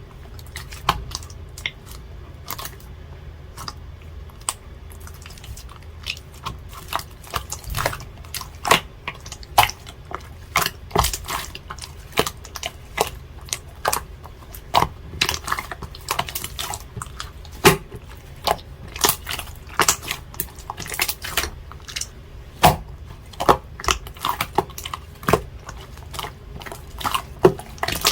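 Blue slime being squeezed and poked by hand, giving many irregular clicks, at times several a second.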